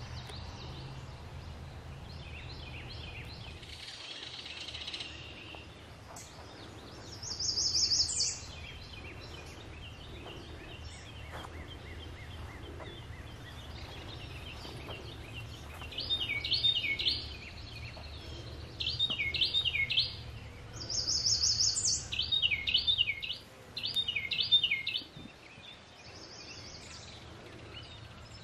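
Songbirds singing over a low steady background rumble. In the second half one bird repeats a short, bright phrase in quick groups, and a high, buzzy note sounds a few times.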